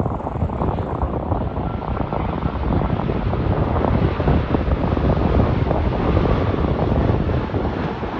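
Jet airliner passing close by: engine noise that builds to a peak about halfway through and then eases off.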